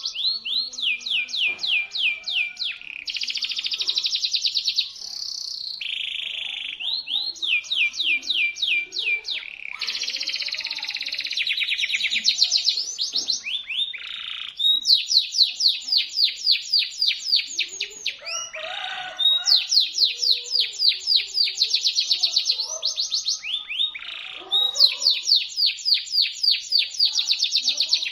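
A local domestic canary singing in full voice: shrill, sharp phrases of rapidly repeated sweeping notes, rolls and trills, one after another with only brief breaks.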